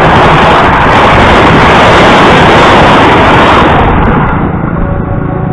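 Passenger train coaches passing at speed close by: a loud, steady rush of noise that falls away about four seconds in as the last coach goes by.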